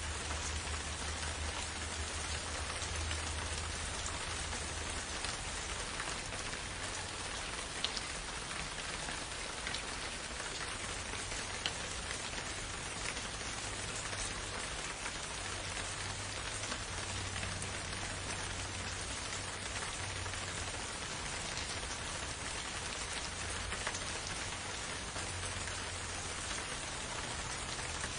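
Steady rain falling in a forest: an even hiss of drops, with a few louder single drops standing out, one near eight seconds in and one near twelve.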